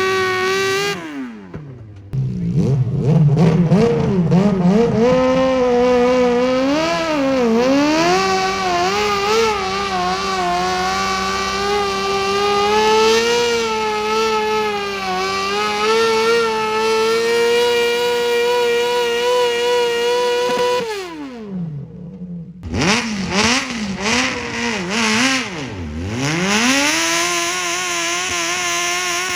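Modified pulling tractor's engine held at high revs under load for about twenty seconds, its pitch wavering. It then drops off sharply, is blipped a few times and settles to a steady idle.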